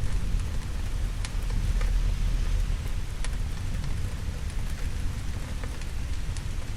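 Steady heavy rain with a low thunder rumble underneath, heaviest in the first few seconds, and a few sharp pops of a wood fire crackling.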